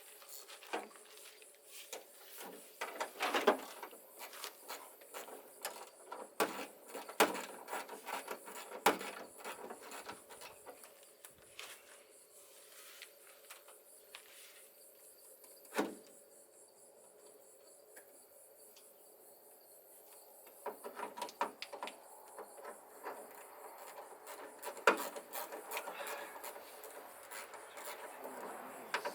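Small metal hood-latch hardware and parts being handled: rustling and rubbing with scattered clicks and knocks, going quieter for several seconds midway.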